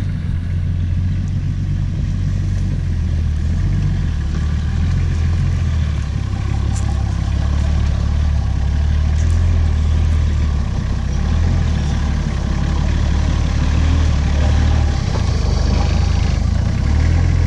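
A four-wheel-drive vehicle's engine running steadily at low revs, a low drone that gets a little louder as it goes.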